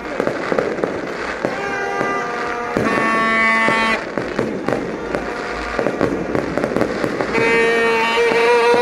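Fireworks going off in quick succession: a dense run of bangs and crackles. A steady pitched tone sounds over them twice, for about a second each time, about three seconds in and again near the end.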